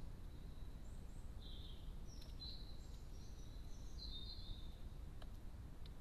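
Faint songbird twittering: several short high chirps and trills come between about one and a half and four and a half seconds in, over a steady low rumble of background noise. A couple of faint ticks follow near the end.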